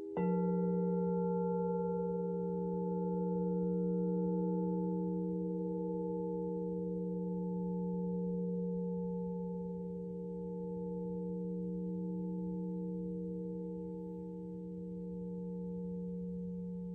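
Alchemical crystal singing bowl struck once, ringing on in a long, steady, pure low tone with a few higher tones that swells and fades slowly in loudness.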